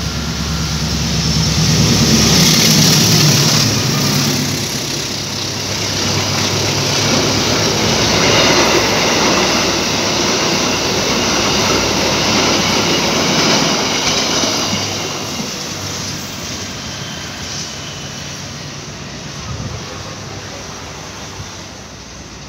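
Diesel passenger train passing close by at speed. The locomotive's engine drone is loudest about two to three seconds in, then the coaches' wheels rumble along the rails. The sound fades steadily over the last several seconds as the train moves away.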